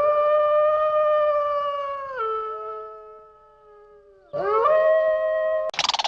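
Canine howling: a long, steady howl that drops in pitch after about two seconds while a second voice overlaps it and fades. A new rising howl starts near the end and is cut off by a harsh, rapidly pulsing call from another animal.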